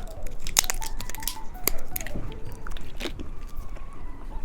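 Close-miked chewing of a soft, filled gummy candy: irregular wet squishes and small clicks.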